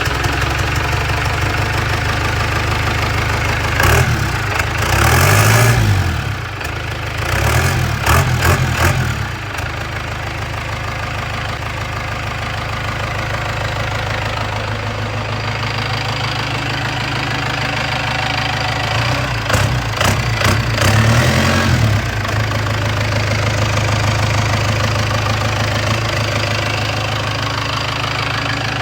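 Cummins 4BT four-cylinder turbo diesel with a Bosch P7100 injection pump, just fired up on an engine stand, idling steadily. It is revved up and back down several times in the first ten seconds, then idles before a few more revs past the middle, and it settles back to idle.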